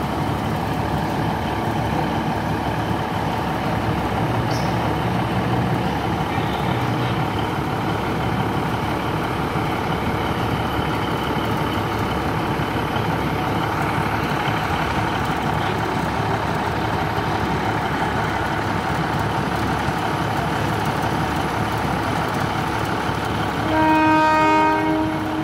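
Diesel passenger train running steadily at a station platform. About a second before the end its horn sounds once, a single blast of a little over a second, the loudest sound here, as the train is signalled away with a green flag.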